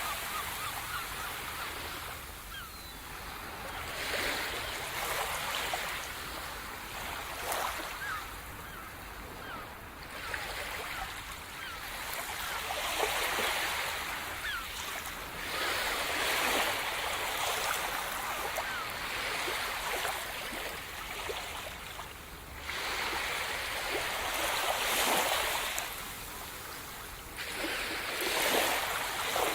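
Sea surf breaking and washing on the shore, swelling and ebbing every few seconds, with a louder surge several times over.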